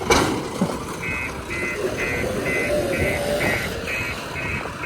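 A reversing alarm beeping steadily at about two beeps a second over a running diesel engine, starting about a second in. A sharp knock right at the start.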